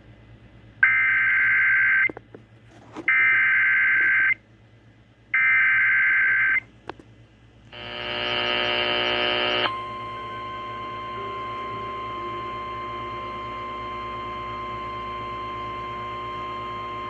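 Emergency Alert System signal broadcast over radio: three screeching bursts of digital header data, each about a second long with short gaps between them. Then a harsh alert tone sounds for about two seconds and gives way to a steady single-pitched warning tone, signalling a severe thunderstorm warning.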